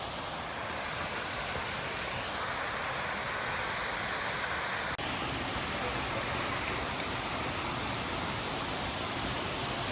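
Waterfall on the River Trevillet at St Nectan's Glen, water rushing steadily, with a momentary break about halfway through.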